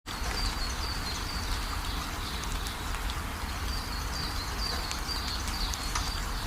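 Steady rain hissing, with scattered drops ticking and a low rumble underneath. A series of short, high chirping calls from an animal repeats through it.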